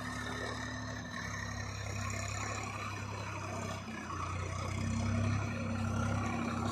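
Tractor diesel engine running steadily, getting a little louder a bit past the middle.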